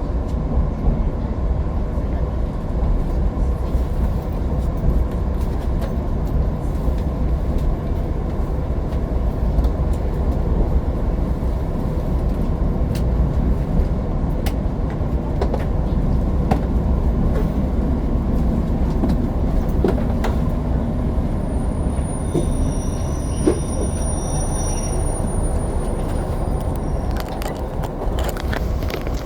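Steady rumble of a diesel limited express train running on the rails, heard from inside the carriage, with a faint high-pitched squeal for a few seconds near the end.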